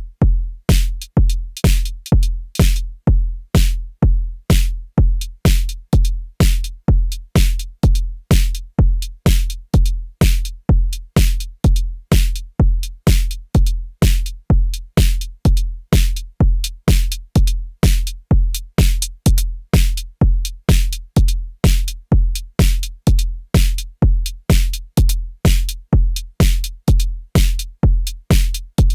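Arturia DrumBrute Impact analog drum machine playing a steady beat: a deep kick drum about twice a second, with sharp, bright hits layered over it from about a second in.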